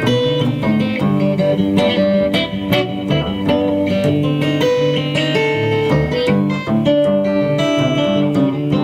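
Live instrumental Americana music: picked acoustic guitar with long held notes underneath, playing steadily.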